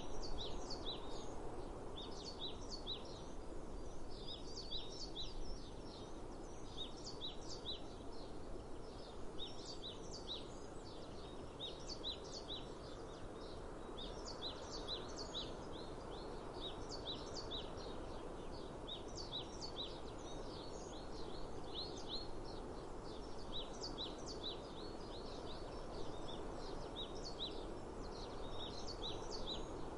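Songbirds chirping continuously, many short high calls coming several a second and overlapping, over a steady low background noise of the open air.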